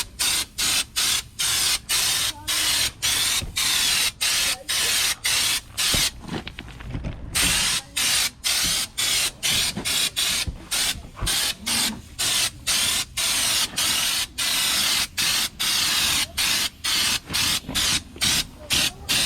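Compressed-air spray gun applying Raptor bed liner, hissing in short trigger bursts of about two a second, with a longer pause about six seconds in.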